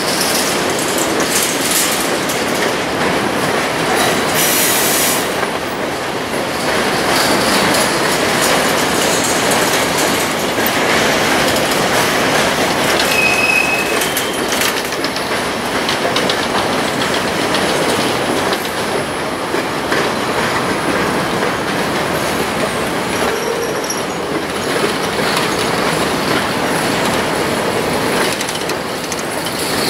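Freight trains of autorack cars rolling past on parallel tracks: a steady loud rumble and rattle of steel wheels on rail, with a brief high wheel squeal about halfway through.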